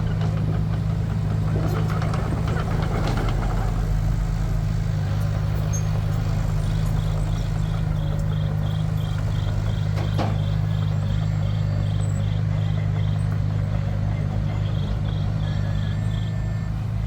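Heavy diesel engine of construction machinery running steadily. Through the middle and again near the end, a rapid high-pitched chirping repeats about four times a second.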